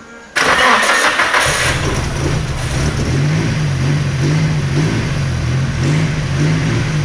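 Nissan SR20DET turbocharged four-cylinder engine, swapped into a Datsun B110, starting about half a second in, flaring loudly for a moment, then settling into a steady idle whose pitch rises and falls slightly about once a second.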